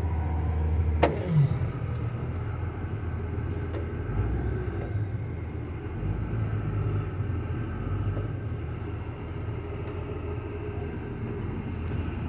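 Diesel engine of an articulated loader-type heavy equipment machine running with a steady low rumble. There is one sharp click about a second in.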